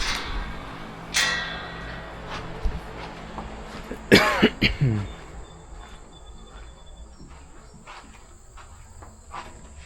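A stall door or gate clatters about a second in. About four seconds in, a miniature horse gives a short, loud call that falls in pitch, as if objecting to someone entering its stall. Crickets chirp faintly after it.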